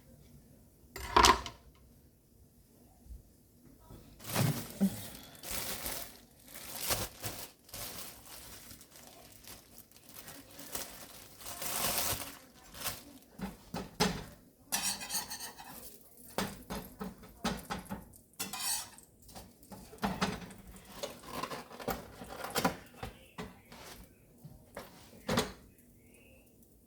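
Kitchen dishes and utensils being handled: irregular clinks, clatters and knocks throughout, the loudest about a second in.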